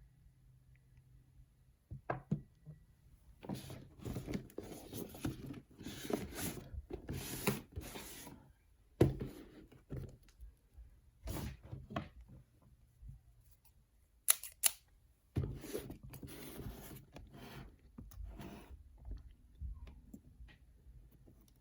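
Toy packaging being handled and opened: irregular rustling and scraping of cardboard and plastic, with a few sharp clicks and taps.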